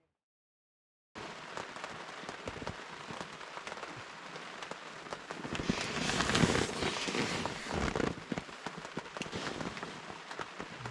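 Steady rain falling, with many small drops ticking against a surface, starting after about a second of silence and growing heavier for a couple of seconds around the middle.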